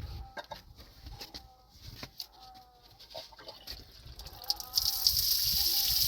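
Chickens clucking with short, soft, repeated calls. Near the end a loud steady hiss starts suddenly and keeps going.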